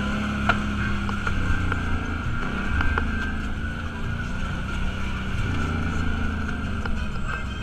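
Off-road vehicle's engine running while driving, its pitch rising and falling with the throttle, with scattered knocks and rattles.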